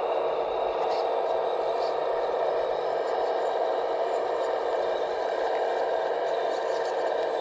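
Scale RC construction machines working: a steady electric hydraulic-pump whine with light scraping and rattling, and a few faint ticks about one and two seconds in.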